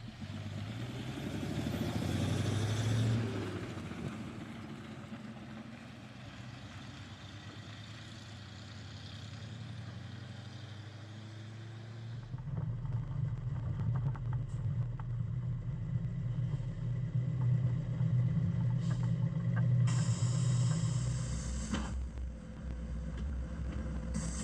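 Old bus engine running as the bus is driven on a road test. It is louder near the start, eases off for several seconds, then picks up again and stays louder from about halfway.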